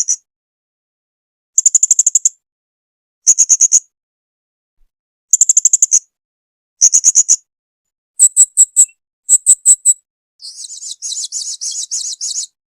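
Blue-crowned hanging parrot (serindit) calling: short, shrill, high trills repeated about every second and a half, then a few separate sharp notes, then a longer buzzy chatter near the end.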